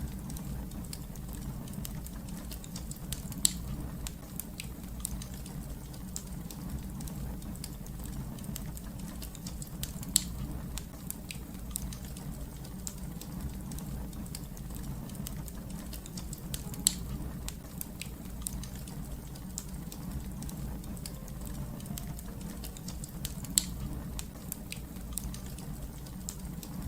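Fire crackling: a steady low rumble with many small crackles, and four sharper pops spaced a few seconds apart.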